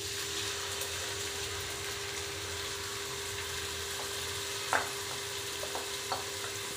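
Tomato purée frying in hot oil over golden-browned ginger-garlic paste: a steady sizzle, with one short knock about two-thirds of the way through.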